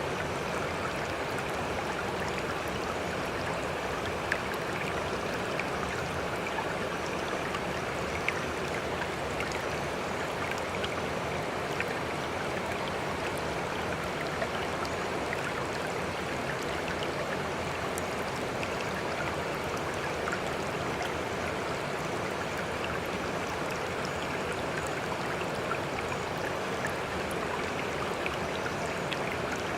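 Steady running water with many small splashing ticks scattered throughout.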